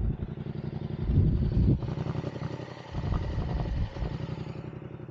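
Yamaha MT-07 (FZ-07) parallel-twin engine running at idle through an aftermarket full exhaust with a dB-killer insert, its level swelling up and down a couple of times.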